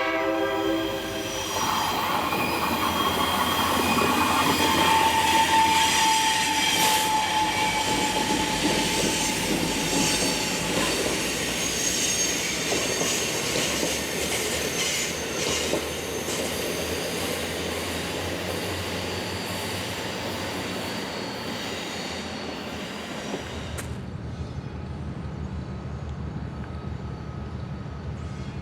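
A train passing at close range: the end of a horn blast in the first second, then rolling wheel noise with squealing wheels and clicking over rail joints. About 24 s in, the sound abruptly turns to a duller, lower rumble.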